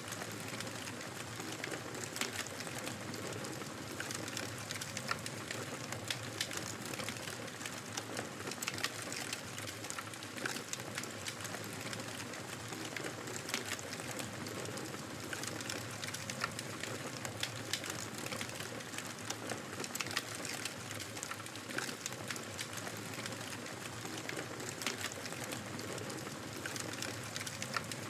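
Wood fire crackling steadily, with frequent sharp pops and snaps over a soft hiss of burning.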